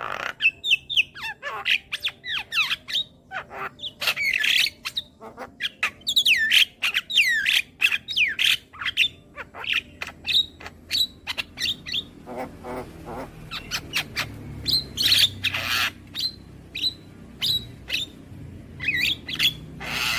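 Javan myna (jalak kebo) calling in a rapid run of harsh squawks, chatters and short whistled notes that slide in pitch. A faint low hum builds underneath from about halfway through.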